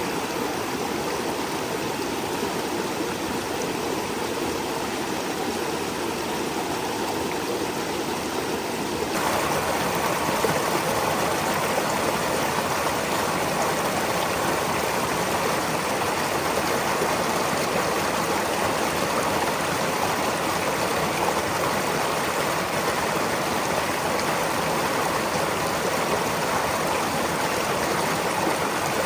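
A brook flowing steadily over stones: a continuous rushing and babbling of water. About nine seconds in it abruptly becomes louder and brighter.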